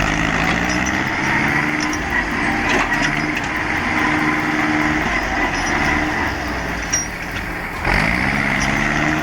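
Tractor engine running under load, its pitch shifting up and down, with a rise in revs near the end.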